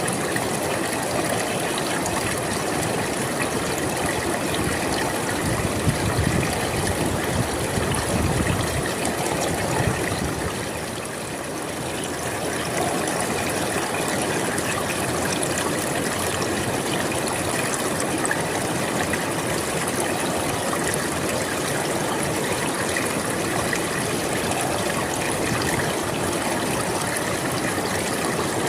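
River water flowing and rushing in a steady stream, with some heavier low surges a few seconds in.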